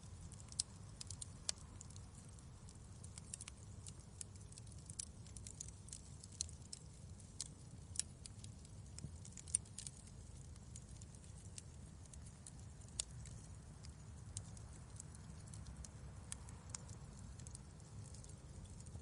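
Fireplace wood fire crackling: irregular sharp pops and ticks, a few louder than the rest, over a faint steady low rumble.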